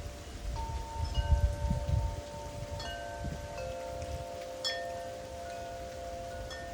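Wind chimes rung by gusting storm wind: several notes struck a few at a time, each ringing on and overlapping the others. A gust buffets the microphone with a low rumble about a second in.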